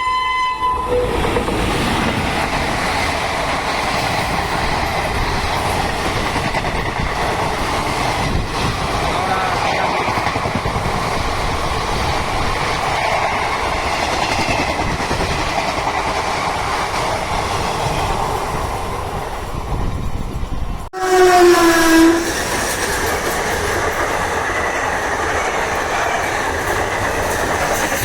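Indian Railways train running past with a steady rumble and rail noise, a locomotive horn fading out in the first second. About 21 s in the sound breaks off suddenly, and a loud horn blast of about a second follows before the running noise resumes.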